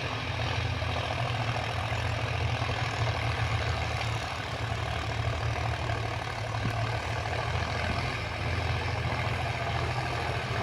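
Sonalika Tiger 745 III 4x4 tractor's diesel engine running steadily with a low, even drone.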